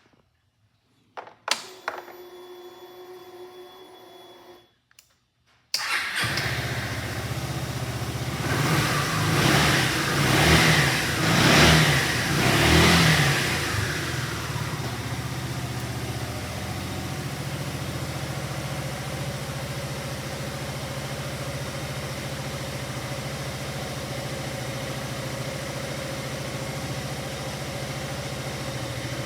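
Yamaha Maxam SG21J scooter's single-cylinder four-stroke engine being started. There is a click and a faint steady hum as the ignition comes on, then the engine catches suddenly about six seconds in, is revved four times, and settles into a steady idle.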